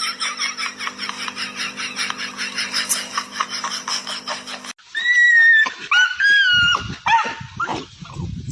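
Fast, repeated high-pitched chattering, then after an abrupt cut about halfway through, a dog whining in several high cries that rise and fall.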